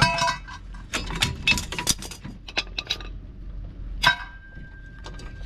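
Metal drum-brake hardware clinking and clanking as springs and parts are pried off and handled. About four seconds in, a sharp clink leaves a ringing metallic tone that lasts over a second.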